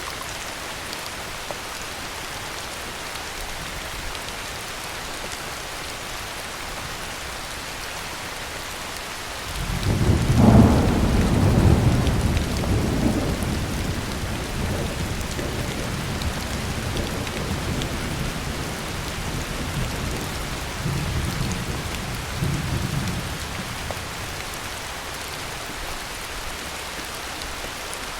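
Steady heavy rain falling, with a roll of thunder breaking in about a third of the way through. The thunder peaks within a couple of seconds, then rumbles on in waves and fades out over about twelve seconds, leaving the rain alone.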